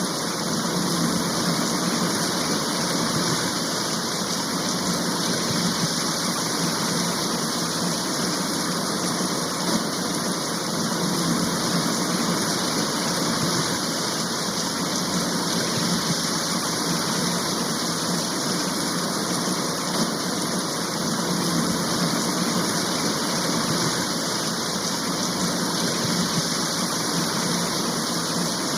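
Heavy rain shower falling steadily, an even hiss that doesn't let up.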